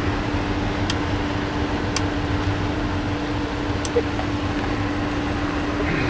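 Steady fan-like hum and hiss, with a few faint clicks of radio knobs and switches being turned.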